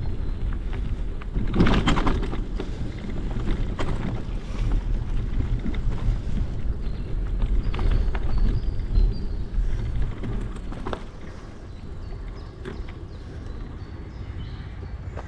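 Bicycle riding along, with wind buffeting the microphone and a steady low rumble of tyres, broken by frequent knocks and rattles over bumps. The loudest jolt comes about two seconds in, and the ride gets quieter about eleven seconds in.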